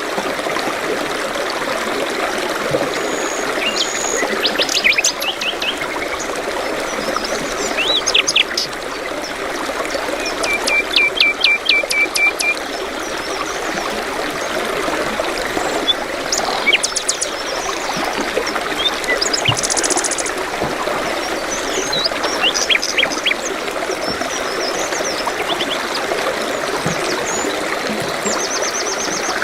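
Steady flowing-water sound like a stream, with songbirds calling over it in short chirps and trills; one bird gives a quick series of repeated notes about ten seconds in.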